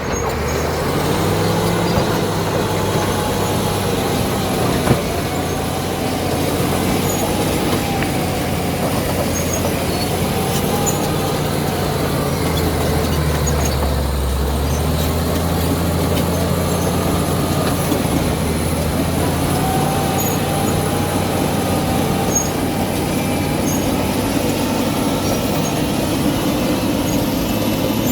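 Cat D7 bulldozer's diesel engine running steadily, its pitch rising and falling a little, with a few sharp clanks, the loudest about five seconds in.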